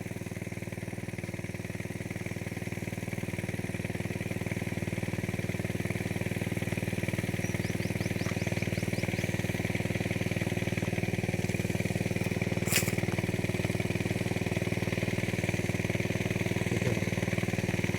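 Engine of a motorized pesticide sprayer running steadily at a constant speed while spraying a chili crop. One sharp click about two-thirds of the way through.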